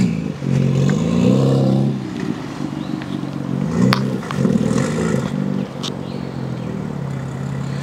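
BMW M4's twin-turbo straight-six revving up and dropping back several times in quick succession as the car drifts, with a couple of sharp cracks, then settling to a steadier, slightly quieter drone over the last couple of seconds.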